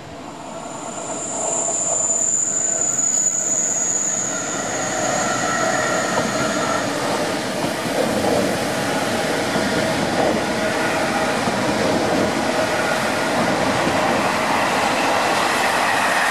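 Double-deck electric commuter train passing close by, its sound building over the first two seconds and then a steady loud rush of wheels on rail. A high, thin squeal rides over it for the first several seconds, and a second train passes on the upper track near the end.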